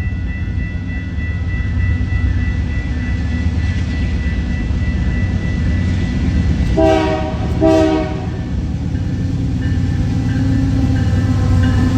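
A train rumbling steadily past, with two short blasts of a locomotive horn about seven seconds in.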